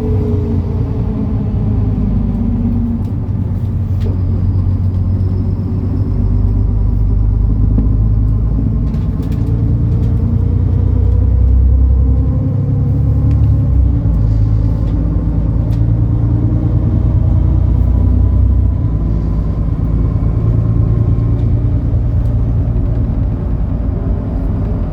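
MAN Lion's City NL293 city bus's diesel engine running on the move, its pitch falling and rising with speed and gear changes. It pulls harder with a heavier rumble through the middle and eases off about three-quarters of the way through.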